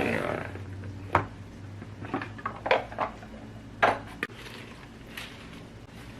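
About six separate clinks and knocks of kitchen dishes and utensils, spread over a few seconds, over a low steady hum.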